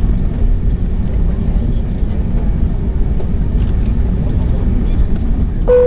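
Steady low rumble of engine and airflow noise inside the cabin of an Airbus A380 airliner. Near the end, a single clear tone sounds suddenly and holds.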